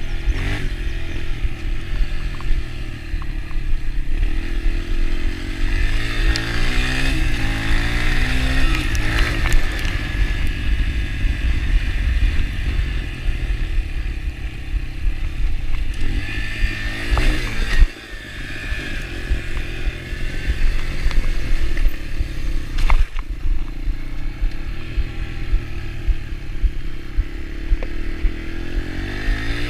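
Yamaha TT-R125 dirt bike's single-cylinder four-stroke engine running under way, its pitch rising and falling as the throttle is worked. A loud knock comes a little past halfway, with the engine note dipping briefly after it.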